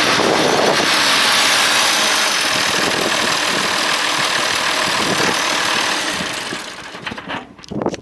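International 1086 tractor's six-cylinder turbo diesel engine running at idle, a steady loud clatter that drops away about six seconds in.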